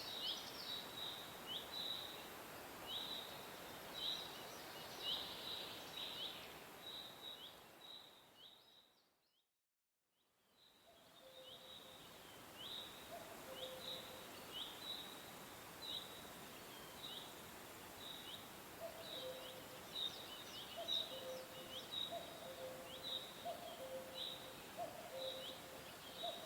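Small birds chirping in quick, short, high chirps over a steady hiss. The sound fades out to silence about a third of the way in and fades back in. After that, short lower notes repeat alongside the chirping.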